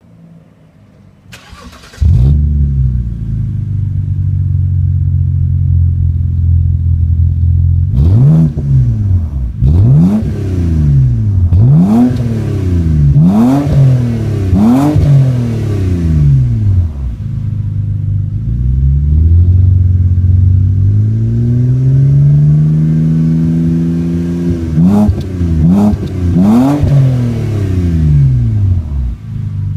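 BMW 323i's straight-six engine running through a custom full dual exhaust with four wool-packed mufflers, built to sound quiet, recorded through a mobile phone. It starts about two seconds in and idles, then gives a run of about six quick throttle blips, one slow, long rev in the middle, and three more quick blips near the end before settling back to idle.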